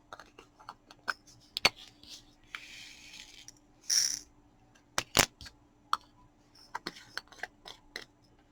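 Small hard clicks and taps of diamond-painting work: a drill pen picking up plastic resin drills and pressing them onto the canvas, with drills clattering in their tray. A short rustle comes about three seconds in, and a louder burst about four seconds in.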